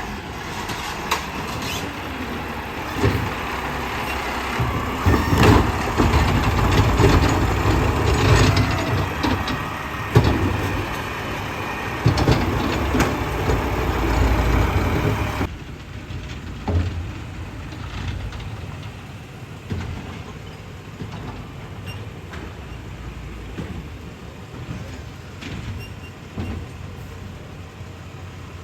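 Garbage truck packing trash: the engine runs under load while the packer works, with repeated clanks and thuds from the compacting. About halfway through the sound drops off suddenly to a much quieter steady engine noise with an occasional knock.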